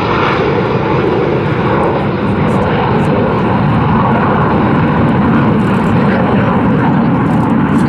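Jet engine noise from a formation of BAE Hawk T1 jets with Rolls-Royce Turbomeca Adour turbofans flying a display, a loud, steady rushing rumble.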